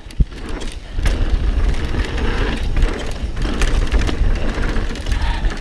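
Mountain bike riding fast down a dirt trail: tyres rolling over dirt and rock, with the bike rattling and scattered clicks and knocks, one sharp knock shortly after the start.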